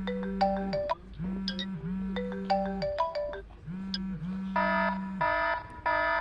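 iPhone ringtone playing: a short electronic phrase of plucked notes over a low droning tone, repeating about every second and a quarter. Near the end it changes to three short, buzzy blasts.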